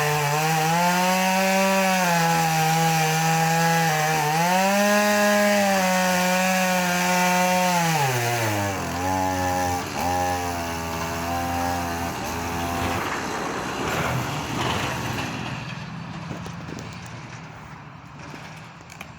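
Two-stroke chainsaw cutting into a tree trunk, its engine pitch sagging under load and picking up again twice. About 8 seconds in it drops to a low idle, then stops a few seconds later, leaving a fainter irregular crackle that fades away.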